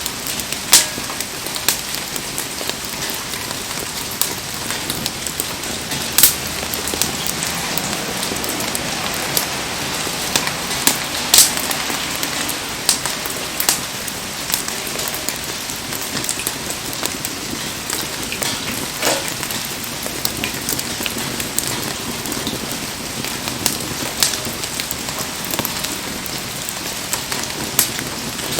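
Heavy rain falling steadily, with scattered sharp pops and ticks through it.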